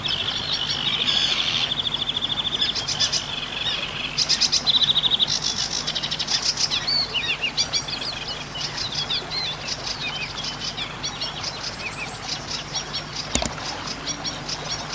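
Zitting cisticola (cici padi) calling: fast buzzy, vibrating high-pitched trills and runs of rapid chattering notes, with a sharp click near the end.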